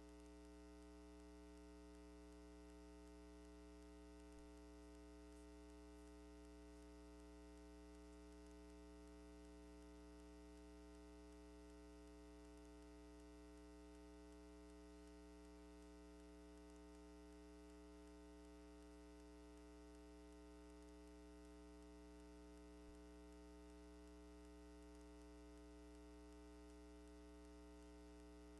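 Faint, steady electrical mains hum, a buzz of many even overtones that never changes, with no commentary or crowd sound.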